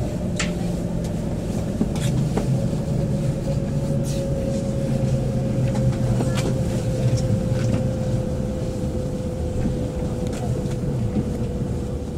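Shinkansen bullet train heard from inside the car while it slows along the platform of its terminal station: a steady low rumble of the running gear with a motor whine that slowly drops in pitch as the train decelerates, and a few light clicks.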